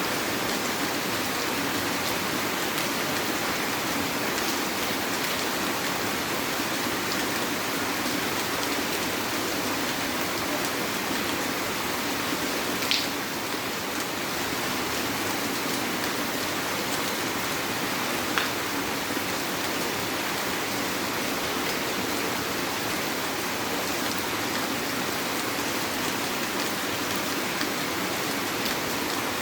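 Heavy rain falling steadily, a dense even hiss of rain on surfaces. Two sharp taps stand out briefly, about halfway through and again a few seconds later.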